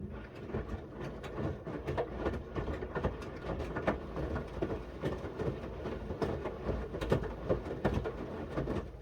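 Miele W1 front-loading washing machine drum turning, with the wet load of shirts tumbling. It makes dense, irregular clicks and knocks over a low rumble. The sound starts abruptly and stops shortly before the end, as the drum pauses between its back-and-forth wash turns.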